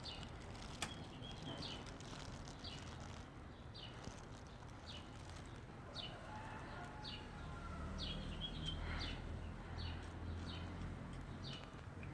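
A small bird chirping over and over, short falling chirps at about one a second, over a low background rumble.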